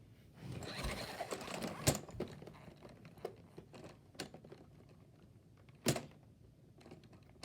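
Close handling noise: a rustle, then a few separate sharp clicks and knocks, the loudest about two and six seconds in.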